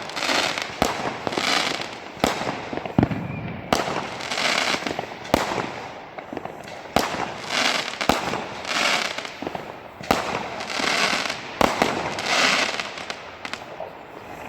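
Fireworks going off: a run of sharp bangs mixed with repeated hissing whooshes, each about half a second to a second long, following one another for the whole stretch.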